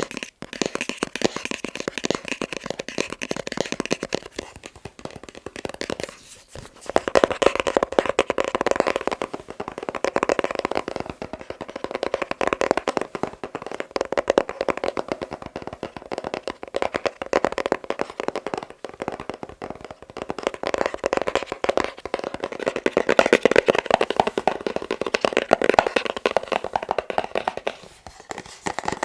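Fingertips tapping rapidly and continuously on a box, with a short pause about six seconds in.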